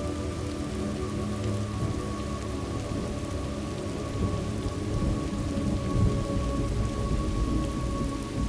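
Thunderstorm ambience: steady heavy rain hissing, with thunder rumbling low underneath and swelling about halfway through.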